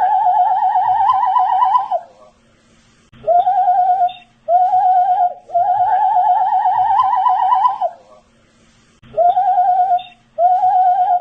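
A man whistling a short looped phrase: two short notes, then a long wavering note that climbs slightly in pitch, the pattern repeating about every six seconds.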